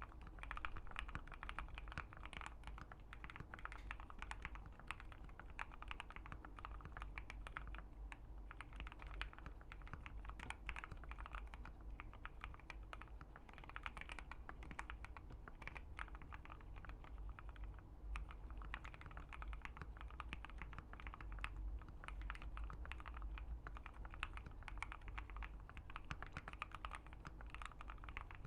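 Continuous typing on a Keychron Q1 75% mechanical keyboard with an FR4 plate and C3 Fierce Girl switches: a dense, steady stream of key clacks over a faint low hum.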